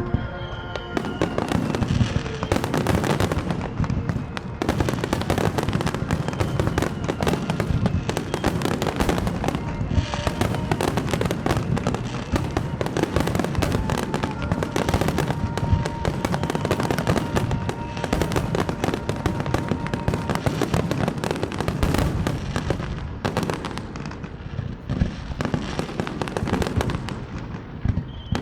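Dense barrage of aerial firework shells bursting, a near-continuous rapid run of bangs and crackles that thins briefly near the end.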